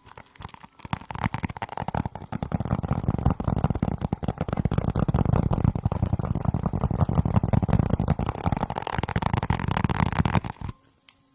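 Dense, rapid crackling and scratching right at the microphone, an ASMR trigger sound, with a low rumble underneath. It builds up about a second in and cuts off abruptly near the end, followed by a single click.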